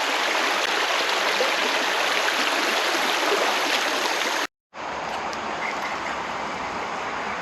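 Creek water rushing steadily. The sound cuts out for a moment about four and a half seconds in, then carries on a little quieter.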